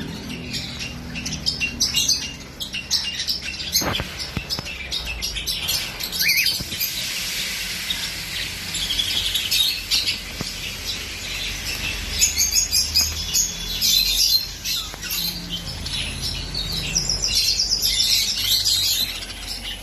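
Parrots chirping and chattering, a dense run of short, high calls that grows busier in the second half.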